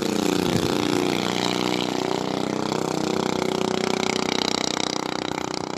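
Predator 212cc single-cylinder four-stroke engine of a mini bike running; its pitch dips and climbs again within the first second, then holds fairly steady.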